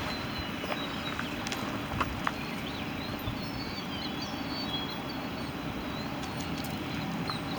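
Steady outdoor background noise with a few faint, short, high chirps in the middle and a couple of soft taps about two seconds in.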